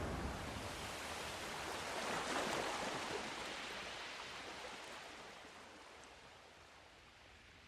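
Sea surf: a wave breaks about two seconds in, then its wash fades away and the sound grows quiet.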